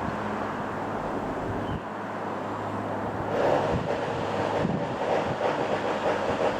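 Wind buffeting the microphone over a distant engine drone, which grows louder and fuller about halfway through.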